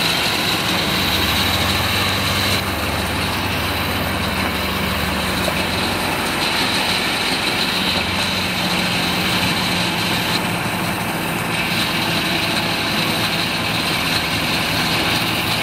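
1944 Volkswagen Schwimmwagen's air-cooled flat-four engine running steadily at low revs.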